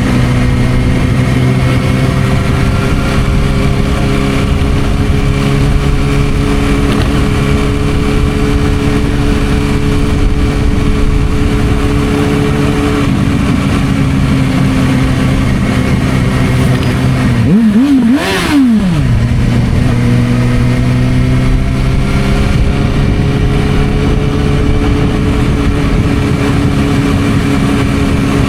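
Suzuki GSR600's inline-four engine through a Dominator aftermarket exhaust, riding along with the engine note sagging slowly for several seconds. About eighteen seconds in there is a quick throttle blip, up and back down, and then the engine runs steadily again.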